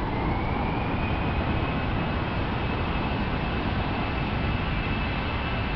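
Airbus A320 jet engines at takeoff power: a steady roar with a thin high whine that rises slightly in the first second, then holds.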